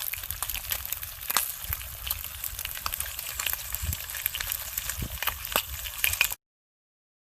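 Food sizzling and popping in a frying pan over a hot log fire, a dense crackle with frequent sharp pops, which cuts off suddenly near the end.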